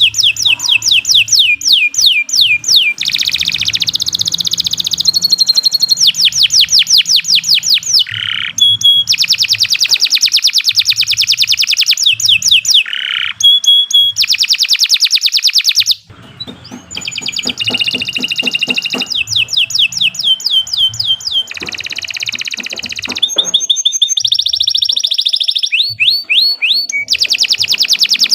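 Domestic canary singing a long, unbroken song of fast trills and rapid runs of repeated notes, switching to a new phrase every second or two.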